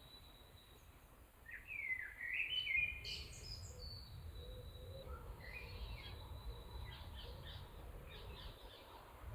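Songbird singing: a loud warbled phrase of gliding notes about a second and a half in, then a run of quieter chirps from about five seconds on, with a thin steady high tone and a low rumble beneath.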